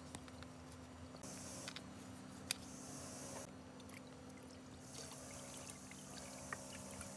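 Liquid pouring or trickling, over a steady low hum, with one sharp click about two and a half seconds in.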